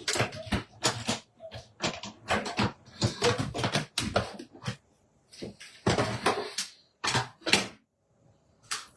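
Papercraft handling noise: a quick run of irregular rustles, scrapes and clicks from cut paper and a small metal leaf die being worked, dying away about eight seconds in, with one last click near the end.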